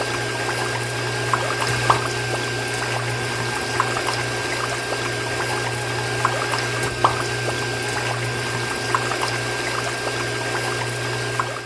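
Small electric water pump running with a steady hum while water pours and trickles, with scattered light drips and splashes.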